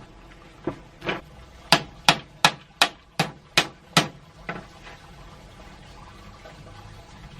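A run of about ten sharp knocks, like hammer blows, roughly three a second, stopping about halfway through.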